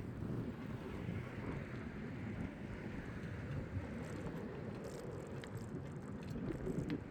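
Wind buffeting the microphone over the rumble of a bicycle rolling along the path. From about four seconds in, light irregular ticking joins it: the bicycle's freewheel ratchet clicking as the rider coasts.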